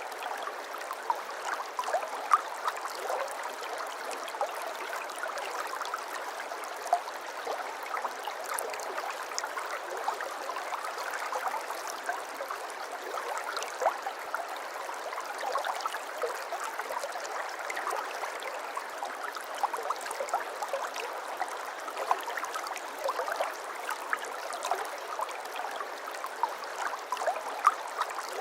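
Shallow water trickling and babbling steadily, with many small splashes and drips scattered through it.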